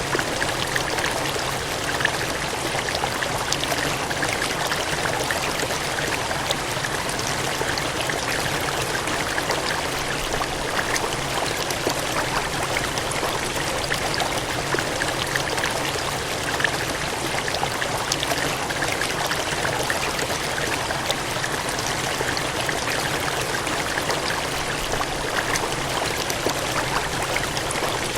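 Water gushing and splashing steadily, a continuous rushing flow with fine splashes throughout.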